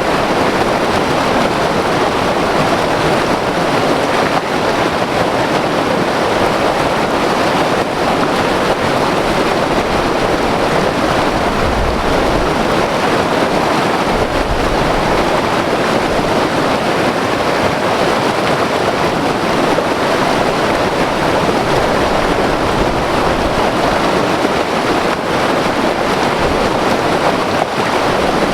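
White-water river rushing over rapids: a loud, steady roar of turbulent water, with occasional low rumbles.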